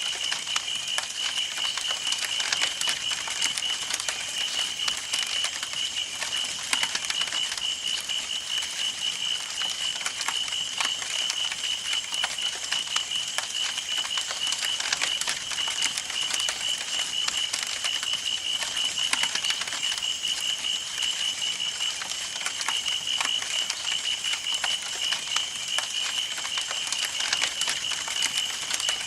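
Campfire burning, the wood crackling and popping continuously, with a steady high-pitched pulsing trill running underneath.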